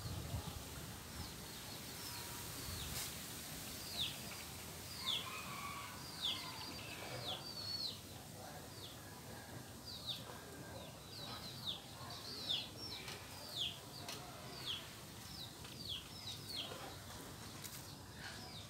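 Birds chirping: a string of short, high notes, each falling in pitch, about two a second, faint against a quiet outdoor background.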